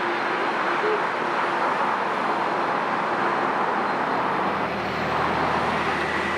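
Jet airliner engines, a loud steady rush of noise with a faint low steady hum.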